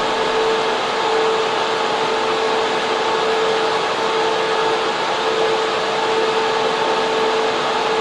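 Data center server room: cooling fans and air-conditioning units running, a loud, steady rushing noise with a constant hum around a single pitch.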